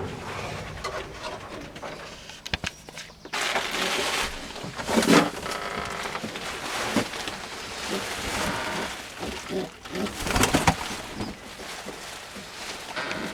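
Fantail pigeons cooing in the loft, with loud rustling bursts about five and ten seconds in.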